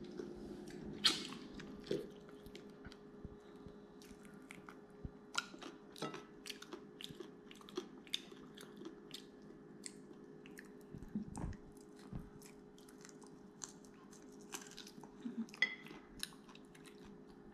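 Chewing and biting on chicken feet eaten with the bone, with many small irregular clicks and crunches of skin, cartilage and bone, over a faint steady hum.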